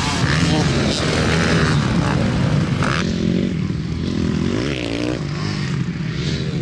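Motocross bike engines running, with one rising rev about five seconds in.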